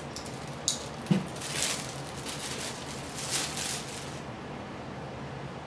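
An HDMI cable's packaging being handled and opened: a couple of sharp clicks and a knock about a second in, then short bursts of plastic rustling that stop about four seconds in.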